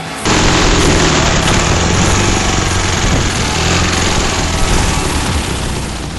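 Engine of a Ural-based motorcycle trike, a flat-twin, running loudly. It cuts in suddenly about a quarter second in and eases off slightly toward the end.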